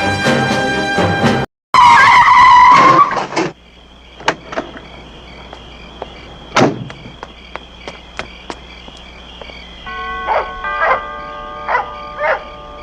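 A car's tires squeal loudly for about two seconds as it skids to a stop, right after a burst of brass music cuts off. Quieter clicks and knocks follow, with a few short ringing tones near the end.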